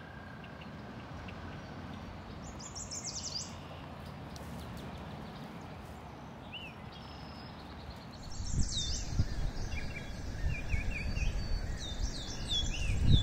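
Small songbirds calling in short bursts of quick falling chirps over a steady outdoor hiss, the calls busiest in the second half. From about two-thirds of the way in, an uneven low buffeting rumble on the microphone becomes the loudest sound.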